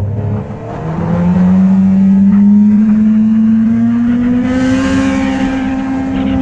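Motorcycle engine accelerating: the note drops briefly about half a second in, then climbs and holds steady at speed, easing off slightly near the end.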